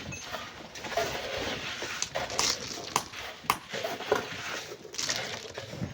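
Irregular sharp clinks and knocks of metal tools on stone, roughly once a second, over a continuous scraping hiss, as stony sand is dug by hand.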